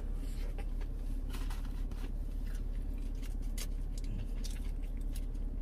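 A person chewing chicken nuggets with mouth closed, faint wet mouth clicks about once a second, over a steady low hum in a car cabin.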